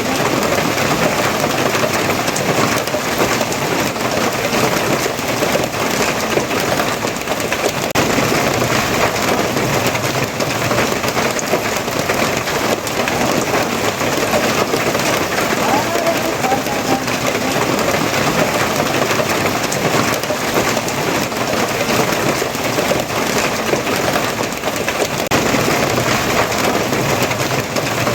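Steady heavy rain falling, an even loud hiss with no breaks.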